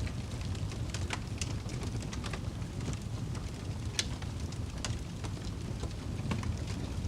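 Wood fire crackling: a steady low rumble with sharp pops at irregular intervals, the loudest about four seconds in.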